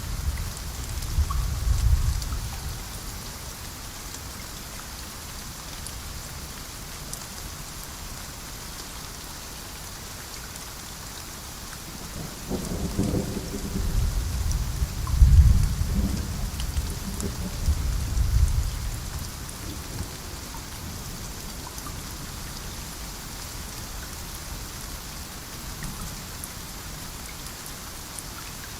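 Steady rain with thunder rumbling. A roll of thunder fades out at the start, then a longer rumble builds about twelve seconds in, peaks a few seconds later and dies away around twenty seconds.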